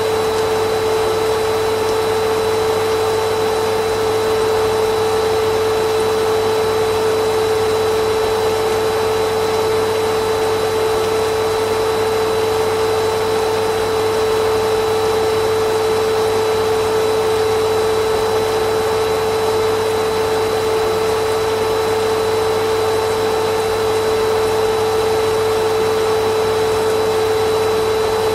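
Vacuum cleaner motor running steadily: a constant rush of air with a steady hum, unchanging throughout.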